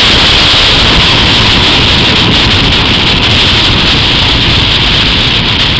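Steady, loud rush of wind on the microphone over the road noise of a car driving at speed.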